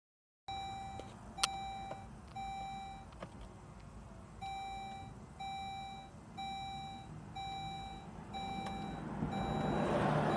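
A car's warning chime beeping steadily about once a second over a low rumble, with one sharp click about a second in. Near the end a rushing noise swells up as the engine sound builds.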